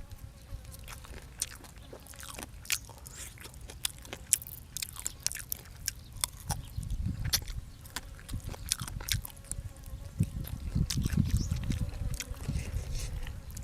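A person chewing and biting food close to the microphone, with many short, sharp crunches. A louder low rumble comes in about ten seconds in.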